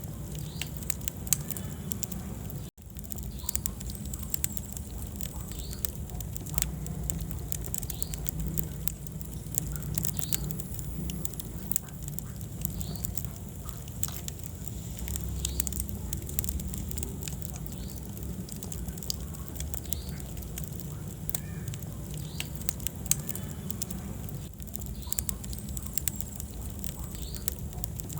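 Wood fire in a fireplace crackling, with frequent sharp pops and snaps over a steady low rumble of the flames. The sound cuts out for an instant about three seconds in.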